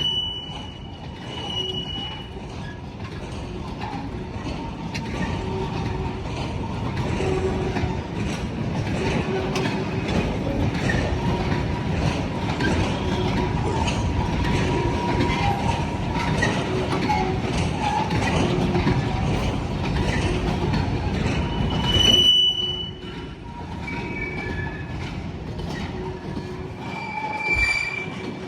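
A train moving through the station: a steady low rumble of wheels on rail with high wheel squeals. The rumble drops off abruptly about two-thirds of the way in, leaving a few fainter squeals.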